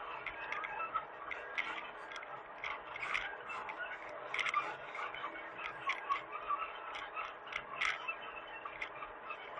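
Hitachi mini excavator running steadily, with irregular clicks and scrapes over the steady engine hum.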